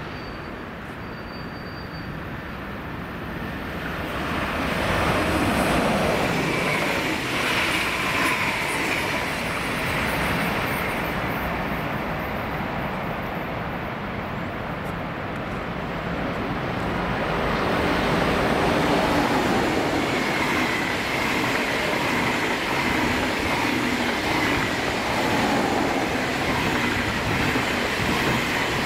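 Trains passing through a station: a train goes by about five seconds in, its pitch gliding as it passes. Then an ICE 2 high-speed electric train approaches and rolls past close by, growing louder, with the rumble of wheels on rail and a thin high squeal from the wheels.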